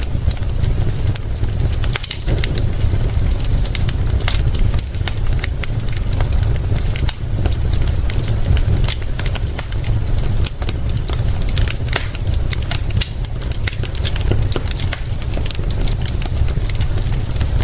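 Wood fire crackling with frequent sharp pops and snaps, over a steady low rumble and an even hiss of rain.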